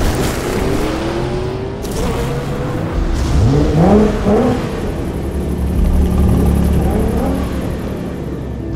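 Car engine revving over a steady low rumble, the pitch climbing in two quick sweeps about three and a half seconds in.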